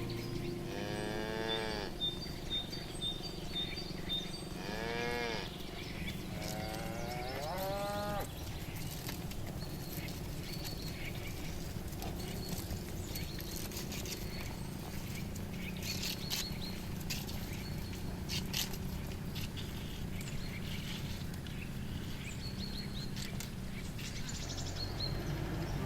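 Cattle mooing: three drawn-out calls in the first eight seconds or so. After that comes a steady background noise with scattered short clicks.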